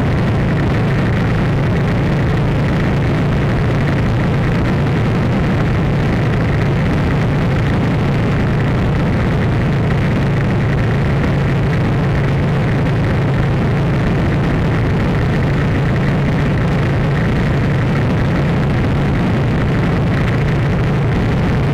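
Loud, steady noise with a low hum underneath, unchanging throughout.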